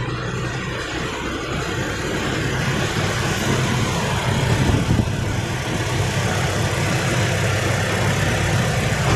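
Toyota Kijang Innova's four-cylinder VVT-i petrol engine idling steadily at about 950 rpm, heard up close in the open engine bay.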